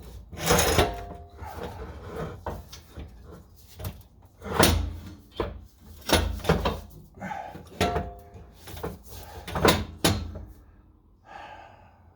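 A series of irregular knocks and metallic clanks from exhaust pipe parts and tools being worked under the car, two of them followed by a short ringing tone.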